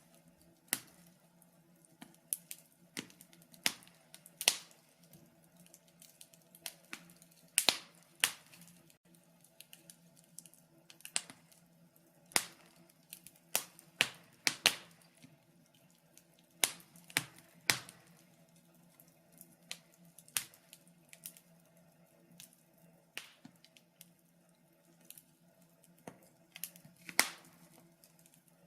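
Wood fire in a fireplace crackling: irregular sharp pops and snaps, some loud, sometimes several in quick succession, over a faint steady low hum.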